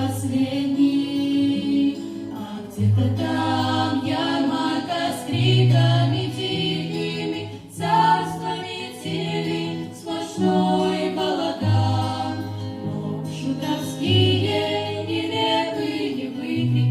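A vocal ensemble singing a song together, over an accompaniment of long held low bass notes that change every second or two.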